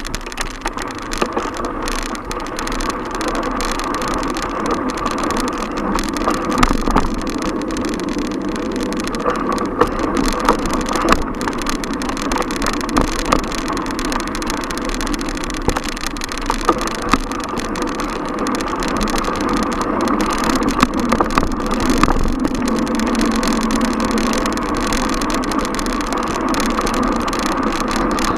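Continuous city traffic and road noise heard from a moving bicycle, with passing car engines and scattered small clicks and rattles.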